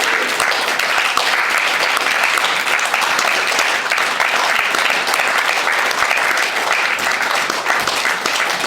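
Audience applauding steadily: many hands clapping together after a vocal duet.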